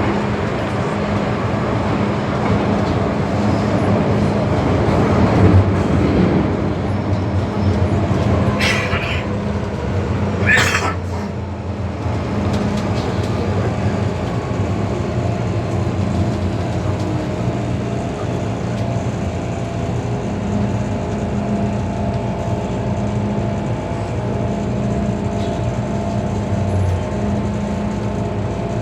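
Inside a moving MTR M-Train electric multiple unit: the steady running rumble and hum of the train in the tunnel, with two short hissing bursts about nine and eleven seconds in.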